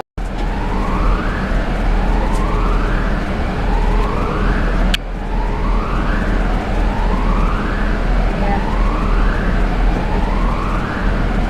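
A siren-like wail that rises in pitch and drops back, repeating about every second and a half, over a steady low rumble.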